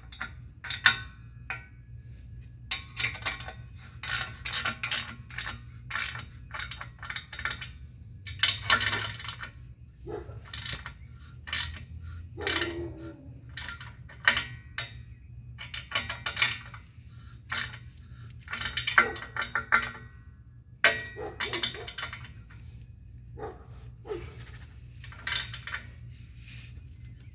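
Ratchet wrench clicking in short irregular bursts, with metal clinks, as the nut on an exhaust pipe connection bolt is tightened down.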